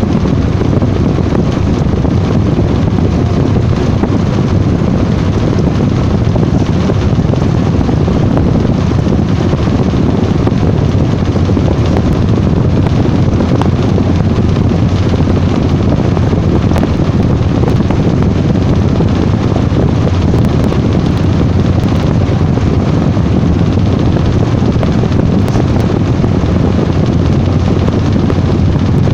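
Washing machine running with a steady, loud rumbling whir.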